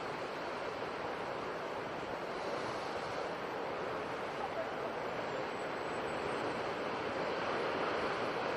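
Sea surf washing in a steady rush, swelling a little near the end.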